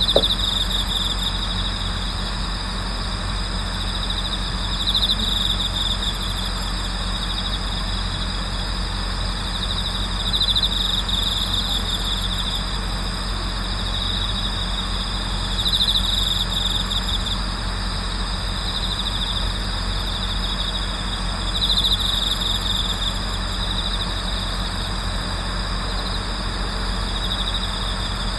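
Night chorus of autumn insects, with bell crickets' pulsed trills swelling louder about every five to six seconds over a steady high ringing of other crickets. A steady low hum runs underneath.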